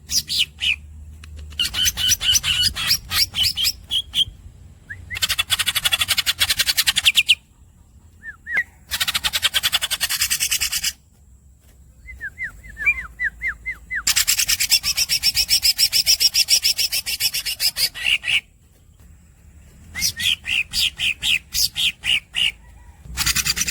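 Green leafbird (cucak ijo) singing: series of rapid, sharp chirping notes alternating with long, fast rolling trills, the longest lasting about four seconds.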